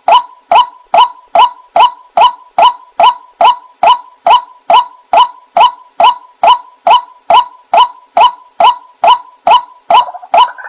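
White-breasted waterhen calling: one short, slightly falling note repeated evenly about two to three times a second. Just before the end the calls become rougher and run together.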